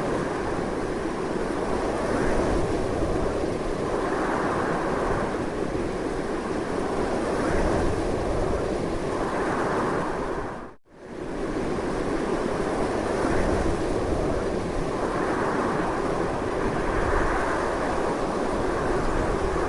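Strong continuous wind as a steady rushing noise that swells and eases in gusts. About eleven seconds in it fades out briefly and comes straight back, like a loop join.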